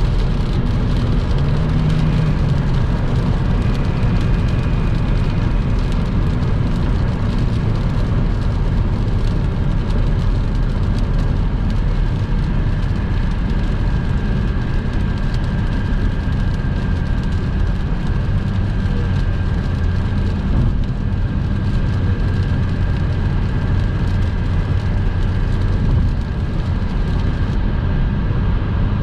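Car driving at highway speed on a rain-soaked road: a steady rush of tyre and road noise with a low engine drone and the hiss of rain.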